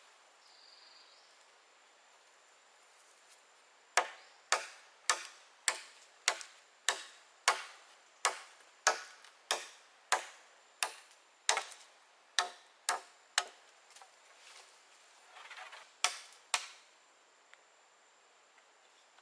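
Wood being chopped with a blade: about sixteen sharp, evenly paced strikes, roughly one and a half a second, then a short pause and two more strikes.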